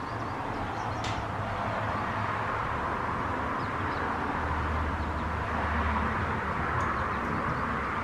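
Steady outdoor background noise with a low hum and a few faint, short bird chirps.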